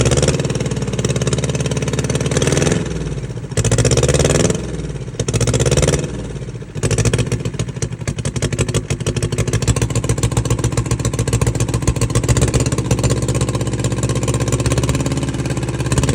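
Yanmar 2GM two-cylinder marine diesel running rough, its speed sagging and picking up again several times in the first seven seconds, then settling into steadier running. It barely keeps going: not good, but it runs.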